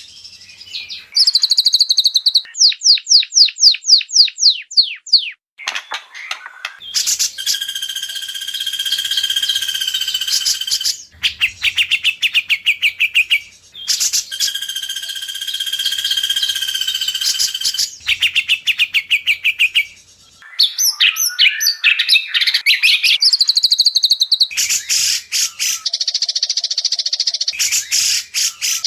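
White-rumped shama (murai batu) song in an edited masteran recording, loud and continuous. It runs through rapid trills of sharp notes and whistled phrases, with a long buzzy phrase of about four seconds that comes twice, each time followed by the same fast trill, as in a looped edit.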